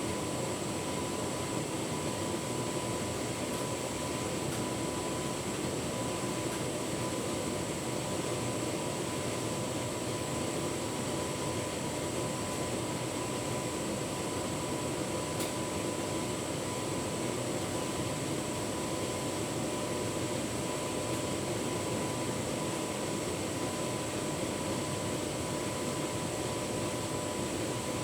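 Tumble dryer running with a full load of bedding: a steady whirring drone with a thin, constant whine.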